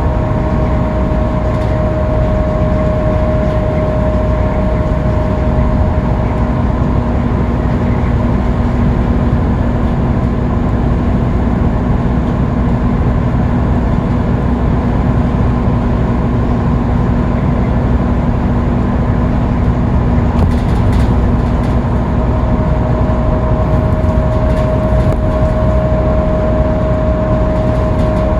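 Scania K310UB bus cruising at freeway speed. Its diesel engine and road noise make a steady, loud drone. A thin, steady whine fades out in the first second or so and returns for the last few seconds, and a lower steady tone runs through the middle.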